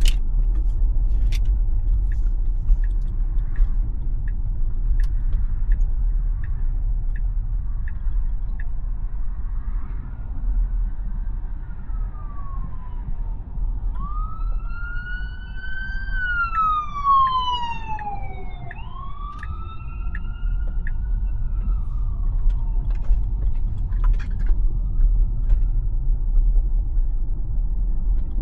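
Steady road and tyre rumble inside a Tesla's cabin, with evenly spaced ticks for the first several seconds. From about ten seconds in, an ambulance siren wails, sweeping up and down in pitch, loudest midway through, then fades.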